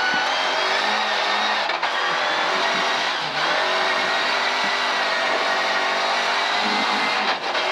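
Volvo 740 rally car's engine heard from inside the cabin, pulling hard along a gravel stage under a steady hiss of tyres and stones, with one upshift from second to third gear.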